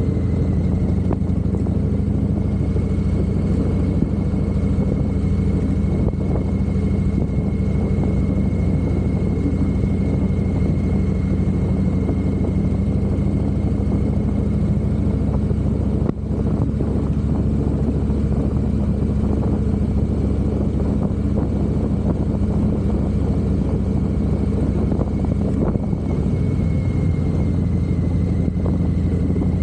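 Harley-Davidson V-twin motorcycle engine running at a steady pace while riding, with a brief drop in level about halfway through.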